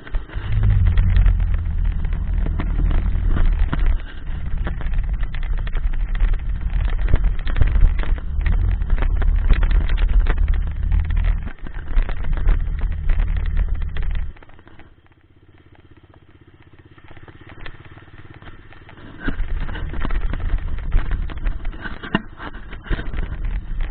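Dirt bike being ridden: a loud, heavy low rumble full of rattle. It drops away to quiet for about four seconds in the middle, then returns.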